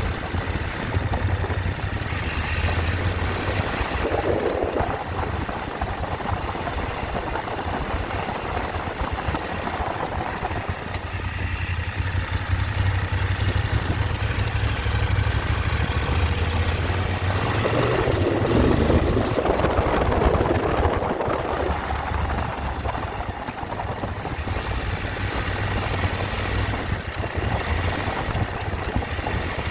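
Motorcycle engine running steadily, its low hum shifting pitch now and then, with two louder swells of rushing noise, one early on and a longer one about two-thirds of the way through.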